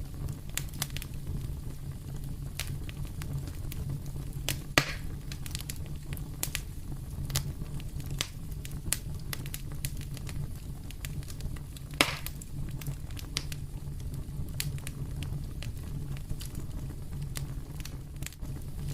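Fireplace fire crackling, with frequent small snaps and two louder pops, about five seconds in and again about twelve seconds in, over a steady low rumble.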